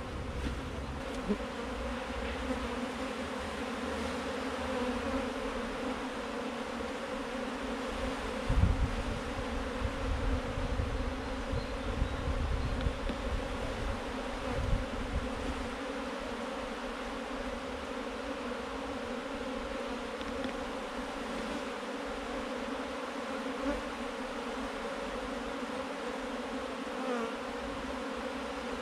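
Many honey bees buzzing together in a steady, dense hum, from a wild colony being removed from a car tire. Some low rumbling comes in and out between about a third and halfway through.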